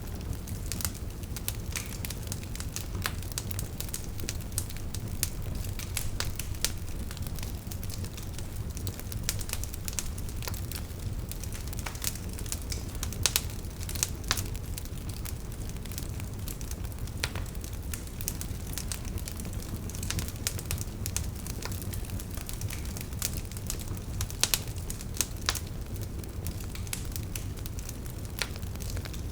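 Burning wood fire crackling: irregular sharp pops and snaps from the logs over a steady low rumble of the flames.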